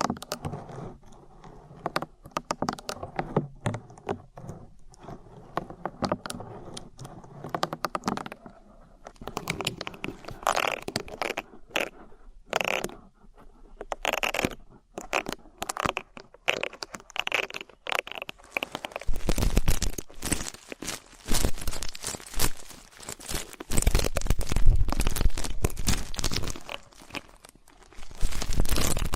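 An ear pick scraping and scratching close against a microphone: a dense run of small clicks and scrapes that turns louder and heavier about two-thirds of the way through, with low rubbing thuds.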